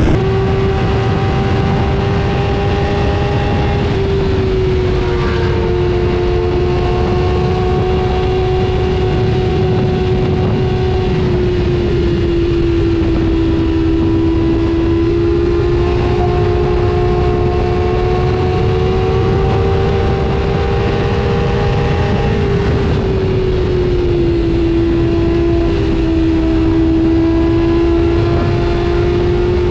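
A motor held at a steady high speed, its pitch wavering slightly now and then, over a constant rushing noise.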